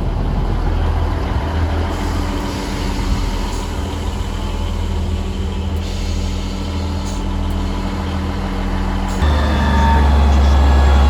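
Diesel train's engine idling with a steady hum, then about nine seconds in it powers up, the rumble stepping up louder as the train gets under way.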